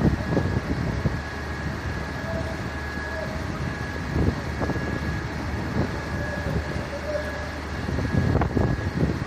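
A large vehicle's engine running, with a steady high whine over it and wind buffeting the microphone.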